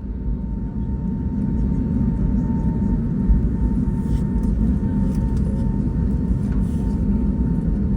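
Steady low rumble inside the passenger cabin of an Airbus A321neo rolling on the ground after landing, with a thin steady whine running over it.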